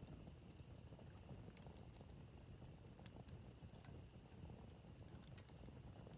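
Campfire burning quietly, wood crackling with scattered sharp pops over a low steady hiss of the flames.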